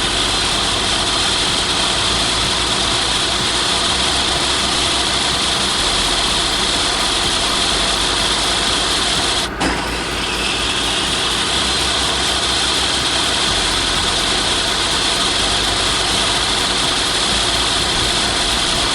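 Heavy construction machine's engine running steadily and loud, with a hissing, rattly edge; it cuts out for an instant about halfway through, then carries on.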